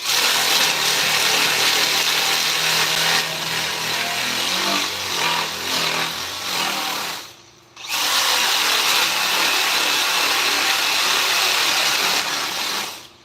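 Handheld power tool running in two stretches, about seven seconds and then about five, with a brief stop between them. It makes a steady, hissy whir that shifts in tone midway through the first stretch.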